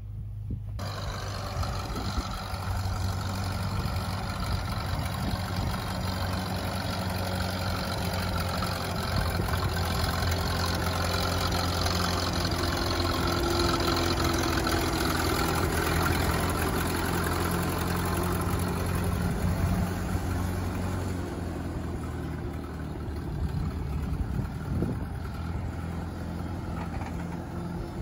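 Propane-fuelled Case 830 Comfort King tractor engine running steadily, a little louder for a stretch in the middle and easing off again after about twenty seconds.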